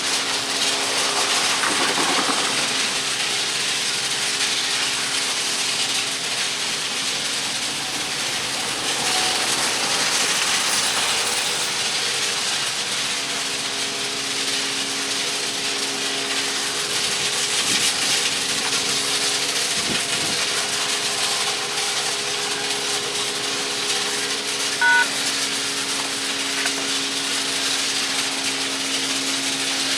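Steady drone of track maintenance machinery running, a hissing noise with a constant low engine hum under it. Late on comes one short, high beep.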